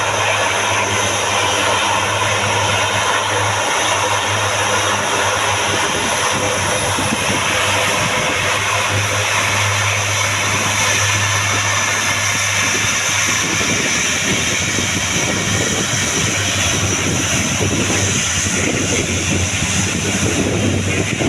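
Turboprop engines of a C-130 Hercules military transport running, a steady propeller drone with a constant low hum underneath.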